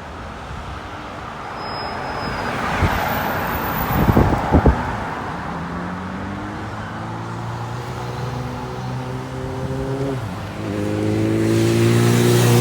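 Road vehicles passing: tyre and engine noise swells as a vehicle goes by a few seconds in, with a couple of short thumps. Then an engine pulls away, its pitch climbing steadily, changes gear about ten seconds in and accelerates again, louder.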